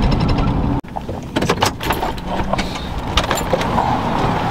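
Low rumble of a running car that cuts off abruptly about a second in, followed by scattered clicks and knocks over a steady vehicle hum.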